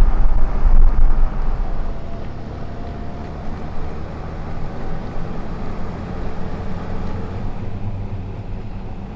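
Truck driving, with a steady low engine and road rumble that is loudest in the first second or two.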